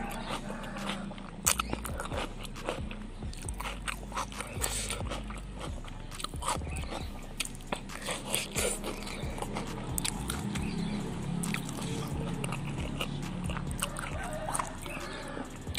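Close-miked chewing and crunching of raw vegetables such as cucumber and leafy greens, with many wet mouth clicks and smacks all through.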